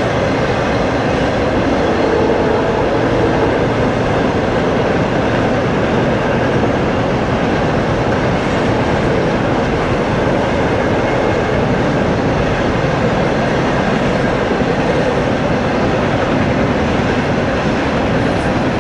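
Intermodal freight train of trailer-carrying flatcars passing: steady, loud noise of steel wheels rolling on the rails.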